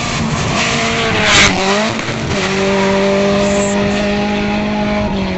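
Rally car engine at high revs on a gravel stage. A loud rush of noise comes about a second and a half in, the engine pitch dips briefly, then it is held steady and high.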